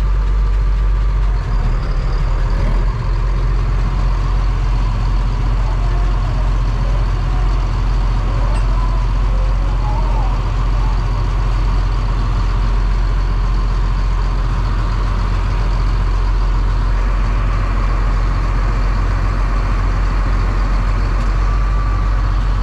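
Tractor engine idling steadily, a deep even hum heard from inside the cab.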